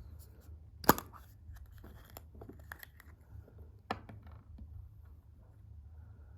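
Surprise egg being unwrapped and opened by hand: crinkling and tearing of its wrapper, with two sharp clicks about three seconds apart, the first the loudest.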